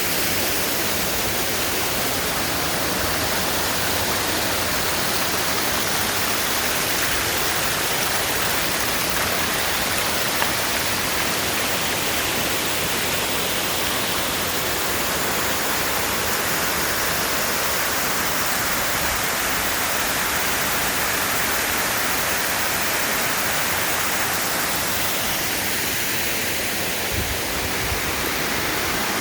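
Waterfall cascading: a steady, loud rush of falling water.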